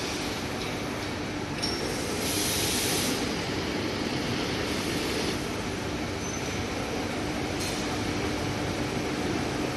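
CNC panel bender (folding center) running: a steady machine hum and rumble, with short stretches of high hiss a few times.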